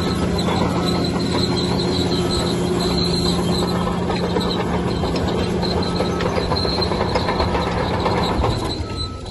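Bulldozer at work: its diesel engine runs steadily with a low hum, over a steady high-pitched whine and clatter from the steel crawler tracks. The sound dips briefly near the end.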